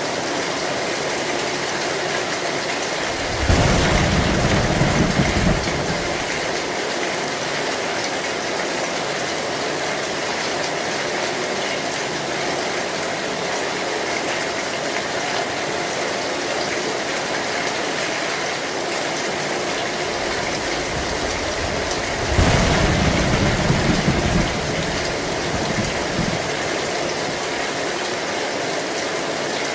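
Heavy rain falling steadily on a metal roof, an even hiss. A low roll of thunder starts suddenly about three and a half seconds in and lasts a couple of seconds, and a second roll comes about twenty-two seconds in.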